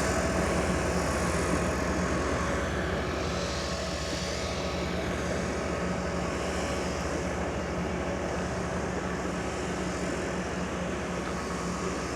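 Large grass-cutting machine running steadily, its engine drone going on with the cutter working the grass verge, easing slightly quieter over the first few seconds.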